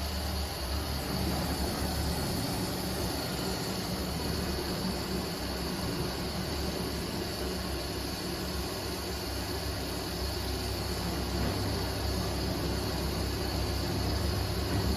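Washing machine running through its wash cycle: a steady low motor hum under an even wash of noise.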